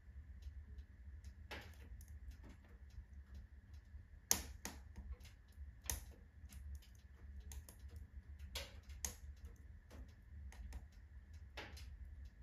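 Firewood crackling as it burns in a wood-burning stove, with irregular small crackles and pops. There is a sharp pop about four seconds in and another about six seconds in.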